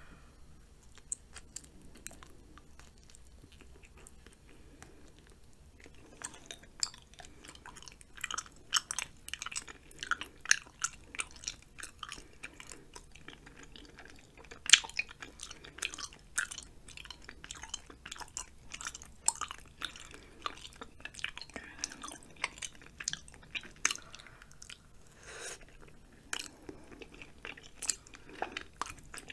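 Close-miked chewing of cheesy spicy ramen and rice cakes, with mouth clicks and smacks in quick, irregular succession. A couple of single clicks come first, and the dense chewing starts about six seconds in.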